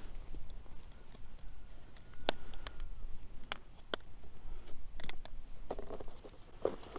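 Several sharp clicks and taps, a few in the first half and a pair about five seconds in, then rustling handling noise, over a steady low wind rumble on the microphone.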